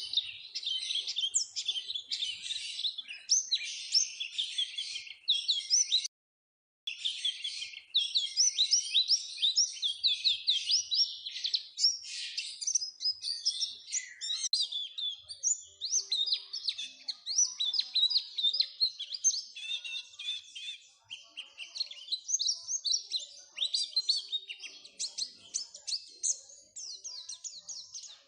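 White-eye song: a fast, continuous high twittering chatter, with a brief break of silence about six seconds in.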